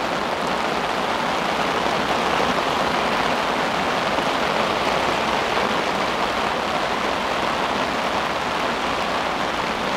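Heavy rain coming down hard, a steady dense hiss with no let-up.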